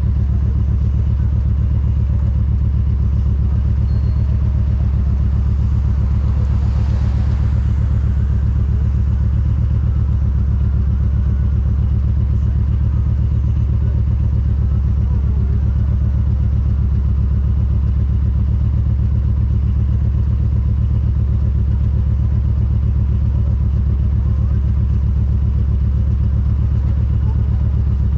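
Motorcycle engine running at a steady speed: a constant low drone with even firing pulses, no revving or gear changes.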